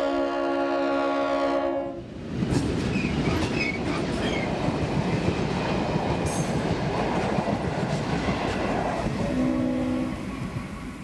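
421 class diesel locomotive sounding its multi-note horn, which cuts off about two seconds in. The locomotive and its passenger carriages then rumble past close by. A short horn blast comes near the end as the noise fades with the train moving away.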